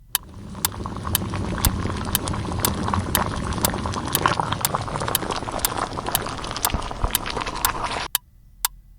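Kettle on the boil: a steady hissing rush with a faint whistle in it, which stops suddenly about eight seconds in. Over it runs a sharp tick about twice a second, like a countdown clock.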